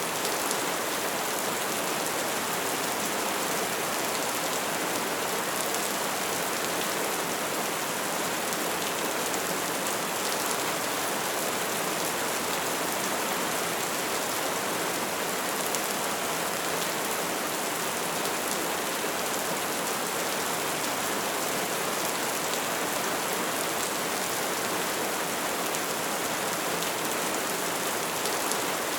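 Wood fire crackling steadily, a dense hiss of flames with many small snaps and pops.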